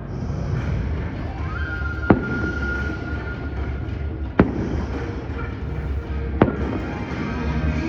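Fireworks shells bursting: three sharp bangs roughly two seconds apart, over steady background music.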